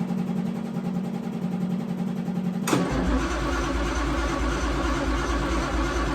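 A 1965 Austin-Healey's engine cranking on the starter, then firing and catching about two and a half seconds in and running.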